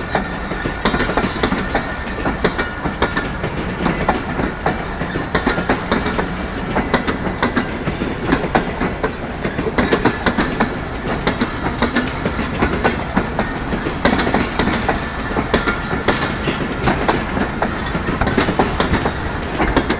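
Shalimar Express passenger train running on the rails: a steady loud rumble of coach wheels on track, with frequent clicks and knocks over the rail joints.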